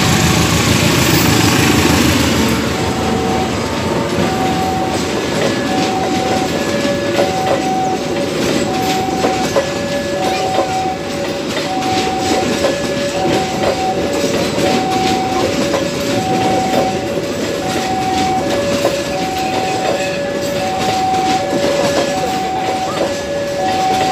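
Railway level-crossing warning alarm sounding two alternating tones, high then low, each about half a second, repeating steadily. Under it, train wheels click over the rail joints, and a locomotive's engine rumbles low for the first couple of seconds.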